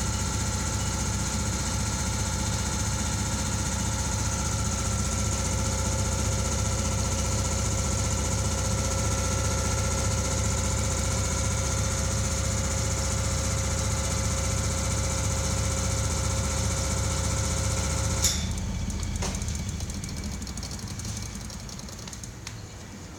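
Hitachi POD-1.5MA5 oil-free package air compressor running steadily with a low hum and several steady whining tones, then cutting off with a sharp click about 18 seconds in, after which the sound dies away over a few seconds.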